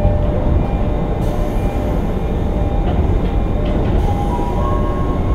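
Running noise inside a JR East 205 series 600-subseries electric train's motor car: a steady rumble of wheels on rail with a few faint clicks. A thin steady whine comes in about four seconds in.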